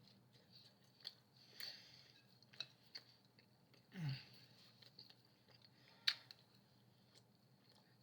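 Faint mouth sounds of someone chewing pizza with the mouth close to the microphone: scattered soft wet clicks, a short low hum about four seconds in, and a sharper click about six seconds in.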